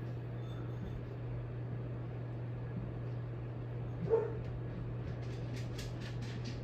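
Steady low electrical hum of a running Hampton Bay Minuet II ceiling fan motor, with barely any other noise from it. About four seconds in a dog gives one short yip, and a run of quick ticks follows near the end.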